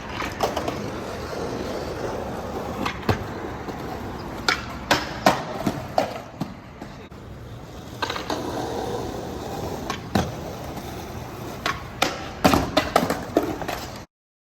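Skateboard wheels rolling over wet pavement, broken by a run of sharp clacks and knocks from the board's tail and landings, with a cluster of them near the end.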